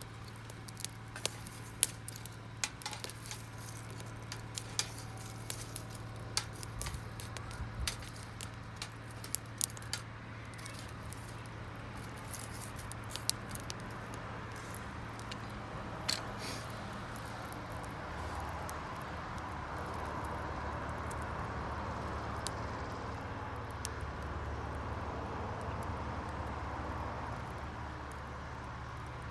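Wood campfire crackling with irregular sharp pops, busiest in the first half. From about two-thirds of the way in, a steady rushing noise rises underneath.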